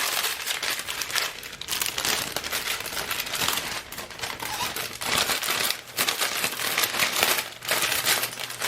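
Plastic packaging crinkling and rustling in stretches as it is handled, with a few short pauses in between.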